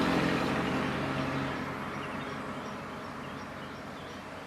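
A passing motor vehicle's engine fading away, its drone dying out over the first second and a half. Faint, short, high chirps follow.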